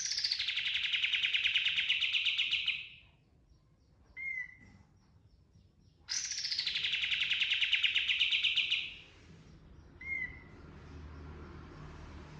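Kapas tembak songbird singing: two long, rapid rolling trills, each about three seconds, with a short sharp down-slurred note after each.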